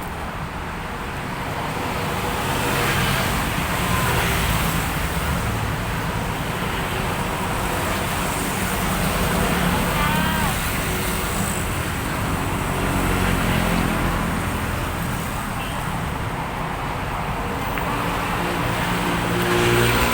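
Road traffic noise: cars and motorbikes passing at a steady hum that swells and fades.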